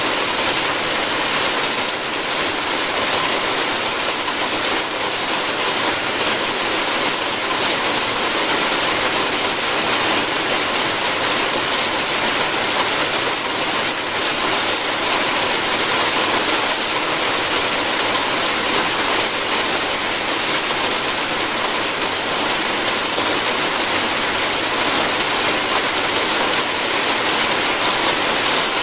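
Steady rain falling on a roof, an even patter that does not change.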